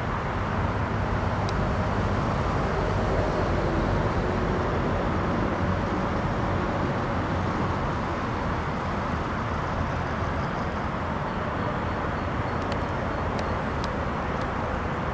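A train running on the line with a steady, heavy rumble of wheels on the rails, and a few sharp clicks near the end.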